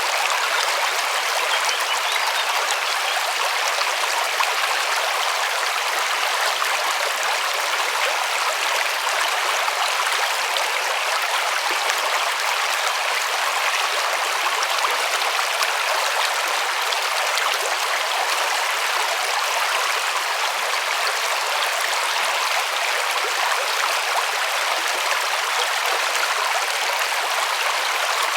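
River water rushing and splashing over stones: a steady, even hiss.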